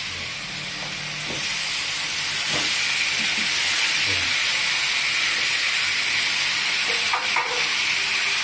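Fried chicken wings and potato cubes sizzling as they go into a hot wok of sautéed garlic, onion and soy sauce; the sizzle grows louder about two seconds in and then holds steady, with a few soft knocks.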